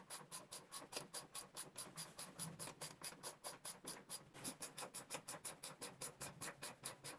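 Socket ratchet wrench clicking in a fast, even rhythm, about seven or eight clicks a second, as bolts are run in on the mini bike's engine mount.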